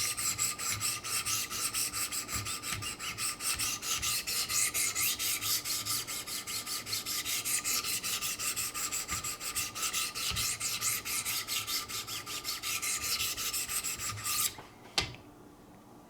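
600-grit diamond stones of a Wicked Edge guided sharpener stroked rapidly along a knife edge, an even rasping scrape about four strokes a second with a thin ringing note from the blade. The strokes stop near the end and one short knock follows.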